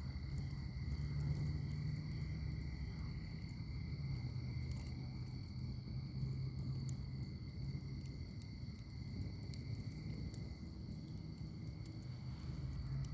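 Wood fire burning in a fire pit: a low, steady rumble of flames with scattered small crackles and pops. Behind it, insects trill steadily at a high pitch.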